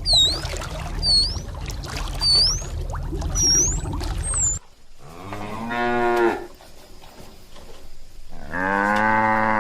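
A cow mooing twice, two long low moos a few seconds apart. They follow a stretch of repeated high bird chirps over a low rumble, which cuts off abruptly about halfway through.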